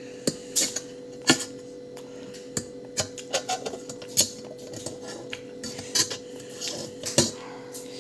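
Metal cutlery clinking and scraping against a dish while eating Maggi noodles: irregular sharp clicks, a few louder knocks, about one to three a second.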